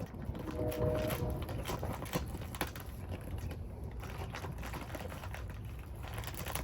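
A large bag of bird seed being handled, with irregular rustling and rattling clicks of seed over a low steady rumble.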